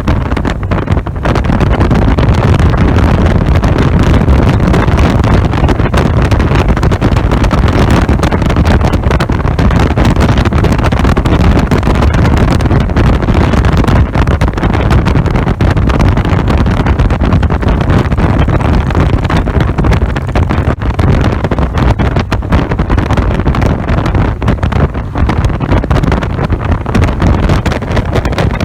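Steady wind buffeting the microphone on a moving Victory Vision motorcycle, with the V-twin engine and road noise running underneath at cruising speed.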